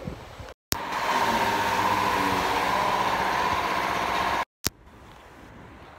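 A car engine running steadily for nearly four seconds, starting and stopping abruptly at short cuts to silence. Quieter outdoor background comes before and after.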